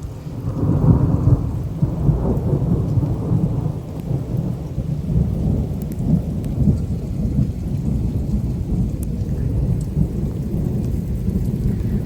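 Long rolling thunder rumble over heavy rain during a thunderstorm. It swells about half a second in and keeps rumbling without a break.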